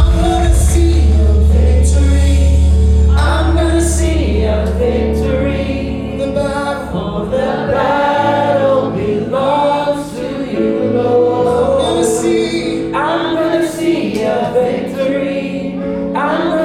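Live worship music: a group of voices singing with a band. A heavy bass note drops away about three seconds in.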